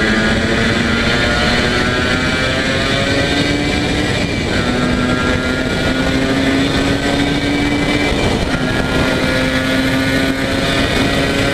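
Yamaha YSR80's small two-stroke single-cylinder engine running hard under load, its pitch climbing steadily, dropping a step about four and a half seconds in and again about eight and a half seconds in, then climbing again, like upshifts while accelerating.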